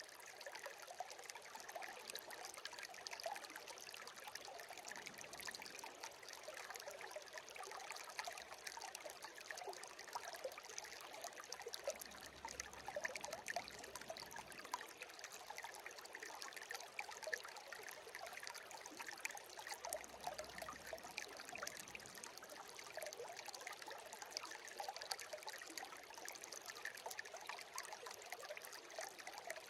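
Shallow stream babbling and trickling steadily, with many small splashes and droplets.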